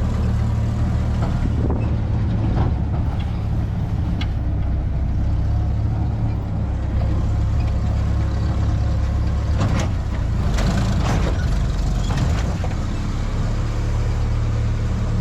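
1952 M38A1 military Jeep's four-cylinder engine running steadily while driving, with a few short knocks and rattles from the body along the way.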